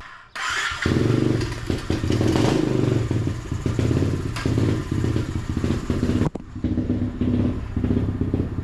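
SSR 125 dirt bike's single-cylinder four-stroke engine catching about a second in and running, with a brief swell in revs, then a sudden short break about six seconds in before it runs on.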